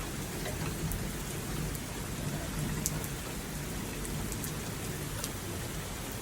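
Steady rain falling in a thunderstorm, with a low rumble of thunder underneath and a few single drops ticking sharply close by.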